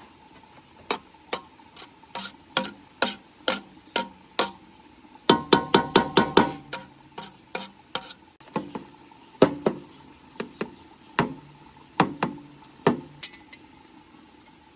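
A run of sharp, uneven knocks or taps, roughly two a second, with a quick flurry of ringing strikes about five to six and a half seconds in.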